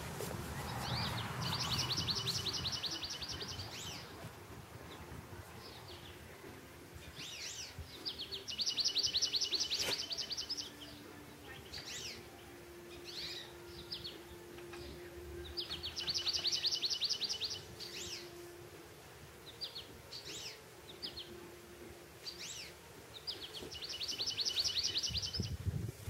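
Songbirds singing: one bird repeats a short song ending in a fast trill about every seven or eight seconds, with scattered single chirps between.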